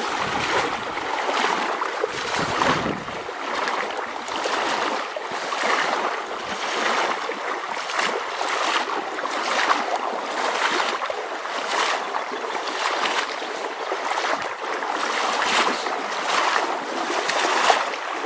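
Shallow river riffle, water rushing and babbling over stones in a steady wash of noise that swells and dips every second or so.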